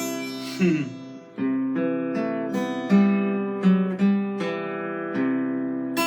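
Acoustic guitar played in strummed chords, each chord ringing and fading before the next, with one note sliding down in pitch about a second in.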